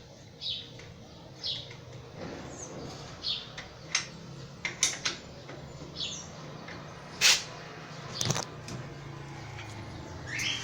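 Short, high bird chirps about once a second, with sharp metallic clicks and knocks of a wrench tightening a bicycle's front-wheel axle nut from about four seconds in, the loudest a little after seven seconds.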